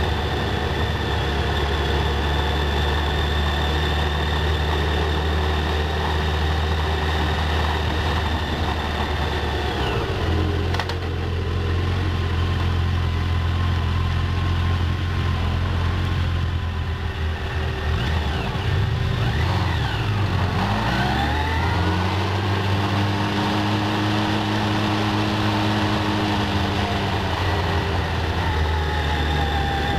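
Yamaha FJR1300's inline-four engine heard from on board in town traffic. It runs steadily, idles for a stretch at a red light, then pulls away about two-thirds through with the pitch rising and falling through the gears.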